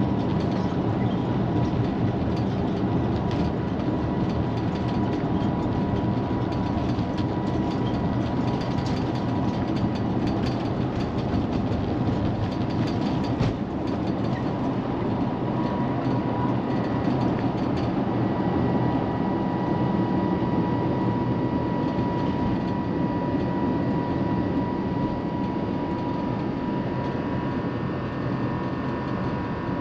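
Airbus A350-1000's Rolls-Royce Trent XWB-97 engines at takeoff thrust, heard from inside the cabin as a loud, steady roar with a steady whine from the fans. A rumble with knocks from the wheels on the runway dies away a little past halfway through as the aircraft lifts off, leaving a smoother, slightly quieter roar.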